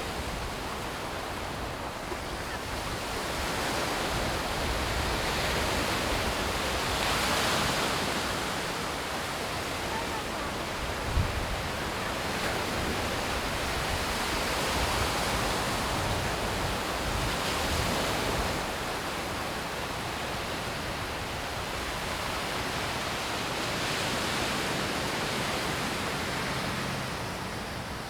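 Sea waves washing onto the beach, the surf noise swelling and falling back every several seconds. A brief low thump about eleven seconds in.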